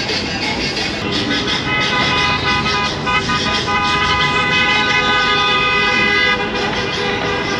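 A vehicle horn held for several seconds over road traffic noise, sounding from about a second in and stopping a little before the end.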